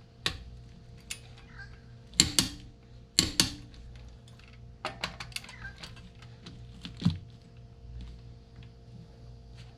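Sharp metallic clicks and knocks from a click-type torque wrench and socket on wheel lug nuts. The loudest are two double clicks about two and three seconds in, with lighter clicks and knocks around them.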